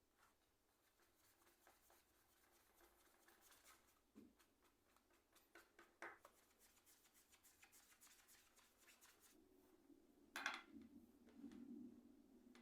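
Near silence with faint clicks and taps of small plastic keyboard parts being handled, and one louder tap about ten seconds in.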